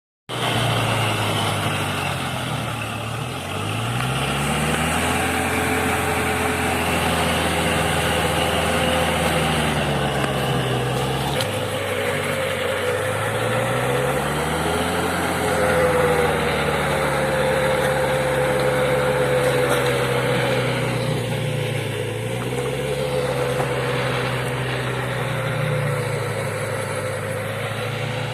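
Kubota tractor's diesel engine running while it pulls a rotavator through hard soil. The engine note sags and climbs back twice, once near the start and again about halfway through.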